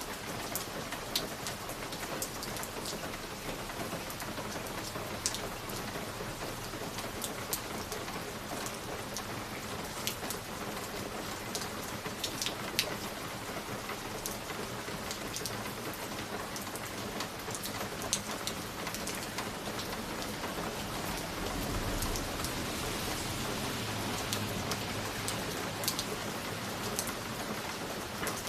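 Fireplace fire crackling: a steady soft hiss with scattered sharp pops and snaps. A low rumble swells up about two-thirds of the way through.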